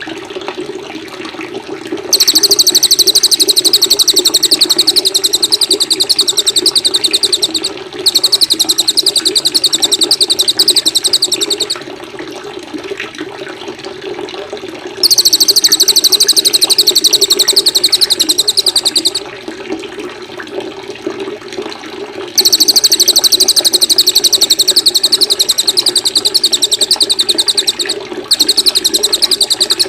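Songbird singing a very rapid, high trill in long phrases of several seconds each, five in all with short pauses between, over a steady background of running water.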